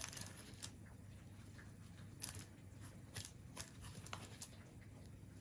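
Faint rustling and crackling of dried harmala herb and seed pods being handled and pressed into a candle mould, with a few scattered light clicks.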